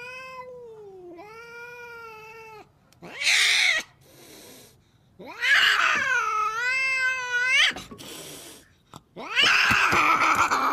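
A cat yowling in several long, drawn-out, wavering calls, the longest and loudest about halfway through, with short harsh noisy sounds between them.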